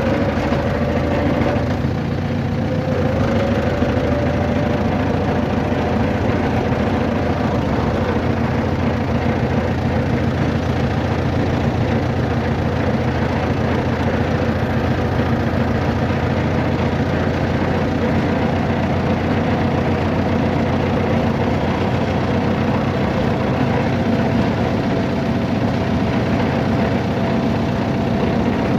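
Steady vehicle engine drone, even and unchanging.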